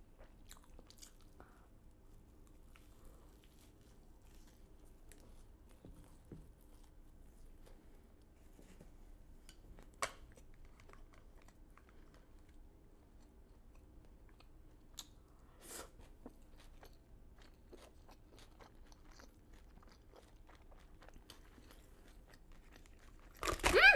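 A person chewing a crunchy fried chicken tender and waffle sandwich, with faint scattered crackles of the breading and a sharper crunch about ten seconds in. A short louder vocal sound comes near the end.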